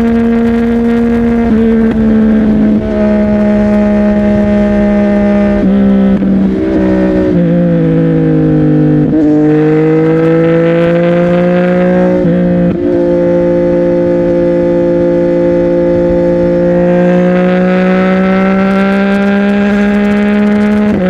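CFMOTO 675NK's three-cylinder engine running through a Burnout titanium exhaust while riding. The engine note steps down in pitch several times in the first half, climbs slowly, drops again about twelve seconds in, then holds steady with a slight rise near the end.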